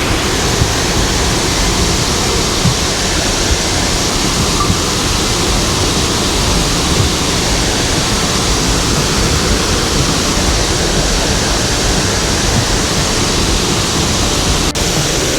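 A waterfall pouring close by: a loud, even rush of falling water.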